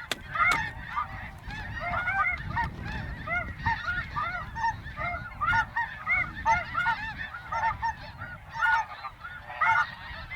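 Dense chorus of snow geese calling: many short, overlapping high honks with no let-up.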